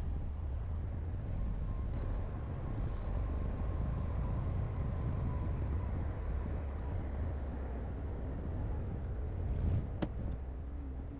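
Heavy diesel earthmoving machinery running steadily with a deep low rumble, and a single sharp knock near the end.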